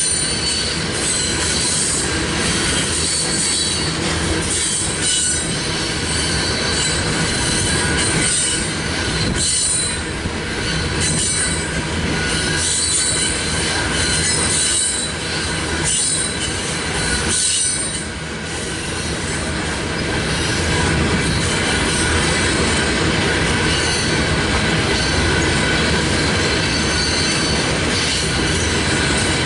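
Freight train rolling past, its steel wheels squealing against the rail in high bursts that come and go, over a steady rumble with clicks from the wheels.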